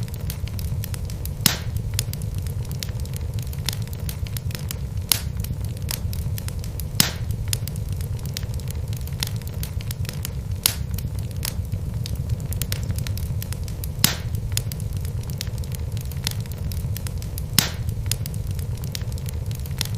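Wood logs burning in a fireplace: a steady low rumble under constant fine crackling, with a sharper pop every couple of seconds.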